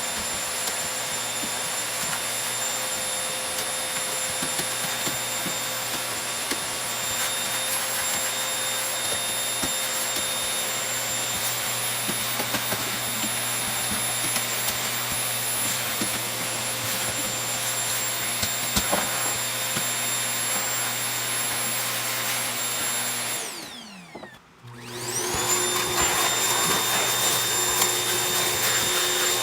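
Vacuum cleaner running steadily with a high motor whine. About 24 seconds in the motor winds down almost to a stop, then starts up again a second later and runs on.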